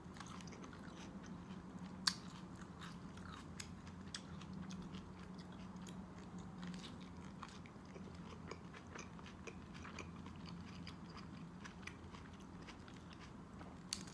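A person chewing food, cilantro stems and tomato, close to the microphone, with scattered wet mouth clicks and smacks, the sharpest about two seconds in. A faint steady low hum runs underneath.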